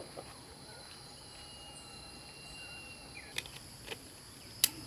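Steady high-pitched insect chirring, with three sharp clicks in the last second and a half; the last click is the loudest.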